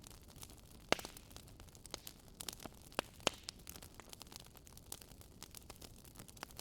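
Campfire crackling: irregular sharp pops and snaps of burning wood over a low steady hiss, with louder pops about a second in and twice around three seconds.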